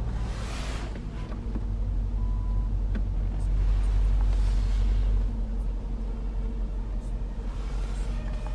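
Low, steady rumble of the Range Rover Sport SVR's 5.0-litre supercharged V8 idling, heard from inside the cabin, swelling slightly around the middle.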